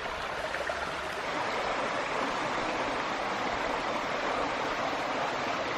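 Fast-flowing stream rushing steadily over rocks. A low rumble underneath fades out about a second in.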